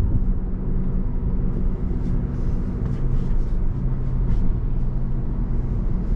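Car engine and road noise heard from inside the cabin while driving: a steady low rumble with an even engine hum.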